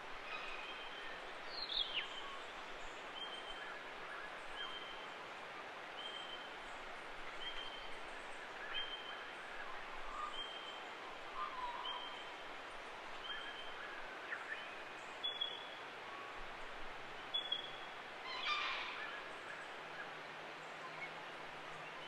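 Wild forest birds calling over a steady hiss of forest background: one bird repeats a short high note about every second and a half, while others add scattered calls, a falling call about two seconds in, two sharp clicks and a brief harsher call near the end.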